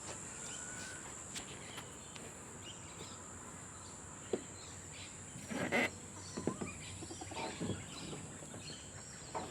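Quiet outdoor background with a steady high-pitched insect drone, broken by a few short faint sounds about midway and later.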